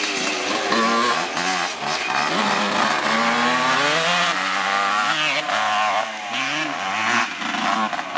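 Two-stroke dirt bike engine revving up and down, its pitch rising and falling again and again as the rider opens and closes the throttle.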